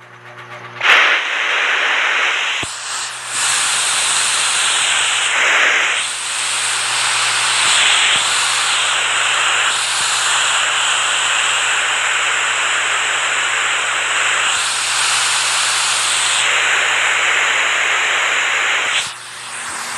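Rushing water: a loud, steady hiss that starts about a second in, changing its tone abruptly several times, as at cuts between recordings.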